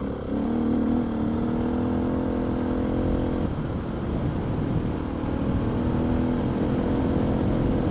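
Adventure motorcycle engine running steadily while riding a dirt road, over a low rumble of road noise. Its note fades about three and a half seconds in and comes back a couple of seconds later.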